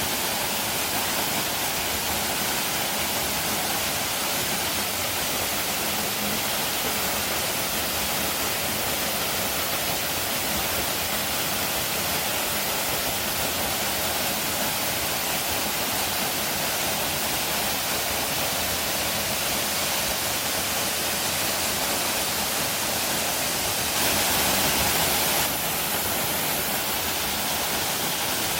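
Waterfall rushing: a steady, unbroken wash of falling water that briefly gets a little louder near the end.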